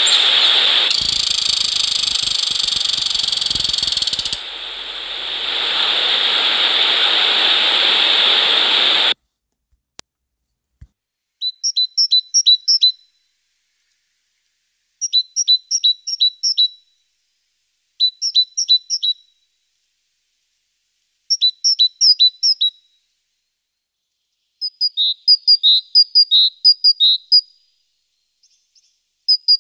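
A loud, steady noise for about nine seconds that cuts off suddenly, then a single click, then a small bird singing: short phrases of rapid high chirps, repeated every few seconds.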